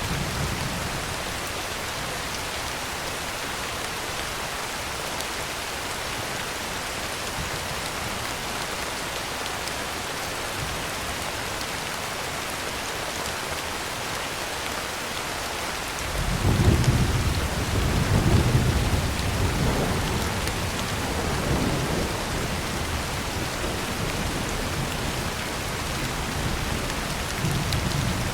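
Heavy rain on a tin roof, a steady hiss. About halfway through a roll of thunder comes in suddenly, swells twice and slowly dies away.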